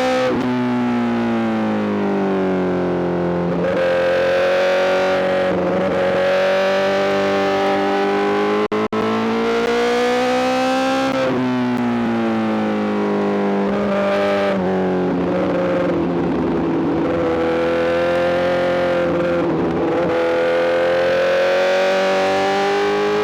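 Honda CBR1000RR-R SP's inline-four engine running through a full Arrow GP exhaust under riding, its note climbing and falling with the throttle, with several sharp breaks in pitch. The sound cuts out for an instant just before nine seconds in.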